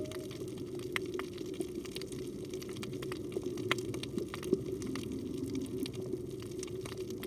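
Underwater reef ambience: a steady low hum with scattered sharp clicks and crackle, typical of snapping shrimp, and faint low held tones that the recordist takes for humpback whale song.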